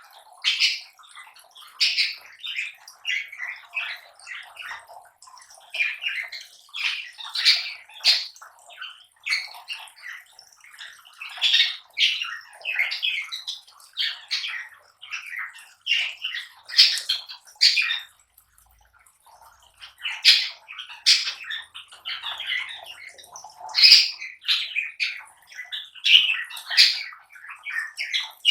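Lovebirds chattering: a near-continuous string of short, shrill chirps and squawks, with a brief lull about two-thirds of the way through.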